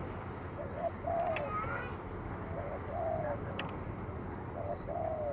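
Spotted dove cooing in the 'thổ thúc gù' style used to stir up decoy birds. It gives three phrases about two seconds apart, each a short note followed by a longer note that dips in pitch at its end. A brief higher rising chirp follows the first phrase.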